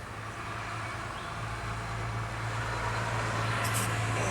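A UPS delivery truck approaching along the snowy street, its engine hum and tyre noise growing steadily louder.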